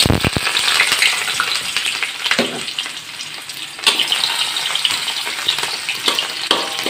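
Sliced shallots, garlic, ginger and lemongrass sizzling loudly as they hit hot oil in a wok, the start of the tumis (sautéing the aromatics). A spatula stirs them, with a few sharp knocks against the pan, the loudest about four seconds in.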